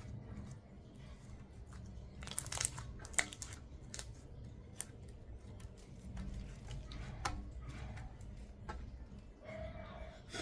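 Soft slime being squished and stretched by hand, with scattered small crackles and pops and a denser crackly patch about two and a half seconds in.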